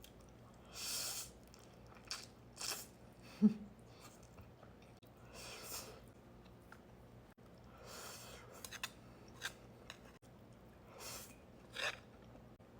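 Close-up eating of instant noodles: chewing and mouth sounds, with short breathy bursts every second or so.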